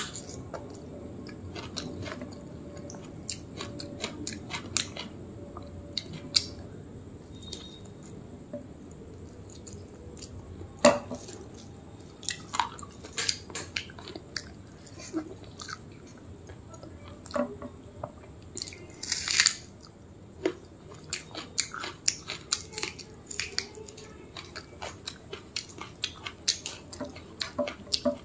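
A person chewing a mouthful of rice and mutton curry eaten by hand, close to the microphone, with many short, irregular wet mouth clicks and smacks over a steady low hum. There is a sharp click about eleven seconds in and a short breathy burst about nineteen seconds in.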